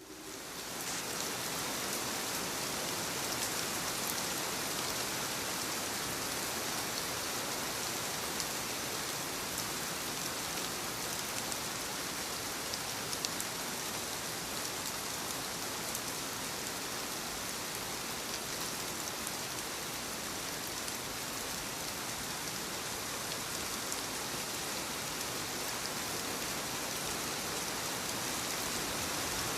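Steady rainfall: an even hiss of rain, with fine raindrop ticks, fading in over the first second and then holding steady.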